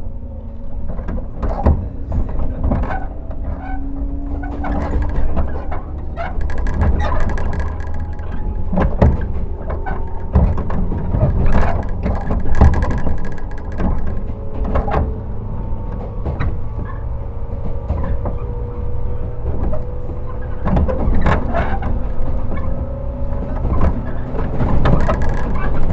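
Running noise of a JR 115 series electric train, heard from its MoHa 114 motor car: a steady low rumble of wheels on rail, broken by frequent sharp clicks and knocks, with a faint hum from the MT54 traction motors that rises slightly in pitch.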